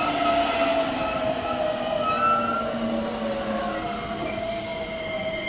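JR West electric commuter train braking as it pulls into the platform: a whine in several steady tones that slowly falls in pitch as the train slows, over the rumble of the train.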